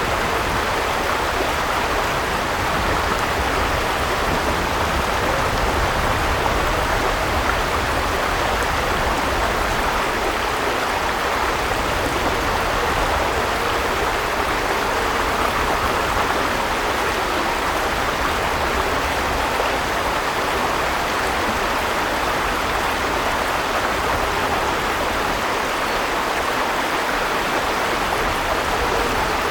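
River water flowing and rushing over stones in a steady, even stream.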